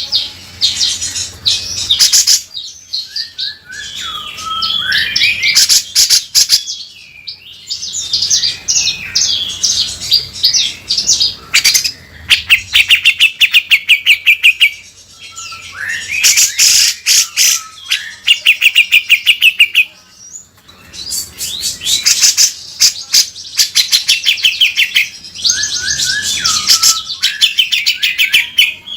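Grey-cheeked bulbul (cucak jenggot) singing in full voice: loud phrases of rapid, harsh rattling chatter and fast repeated notes, each phrase several seconds long and separated by short pauses.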